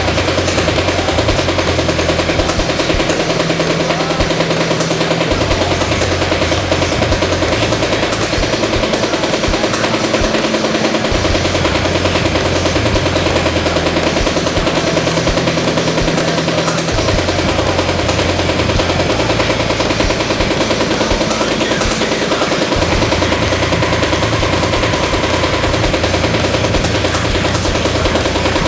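Paintball marker firing reballs in a rapid, unbroken stream, the balls smacking the garage wall and floor, as the paint is broken in to a worn, flat-spotted state. A low hum underneath cuts in and out every few seconds.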